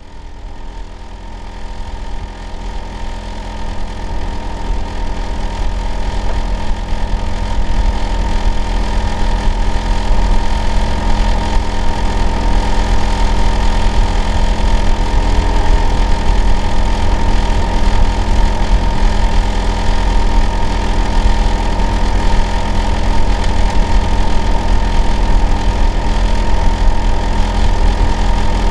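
Hitachi air-conditioner outdoor unit running: a steady low hum under a set of held humming tones and a whine, growing louder over the first several seconds and then holding level. The listener next door calls it abnormally noisy.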